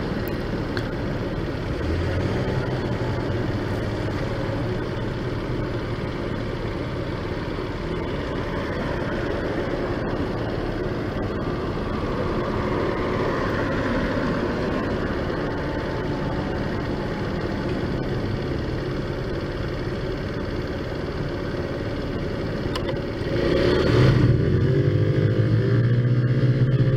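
Taotao Zummer scooter's small four-stroke engine running under way, with steady road noise; about 23 seconds in it gets louder and rises in pitch as the throttle opens.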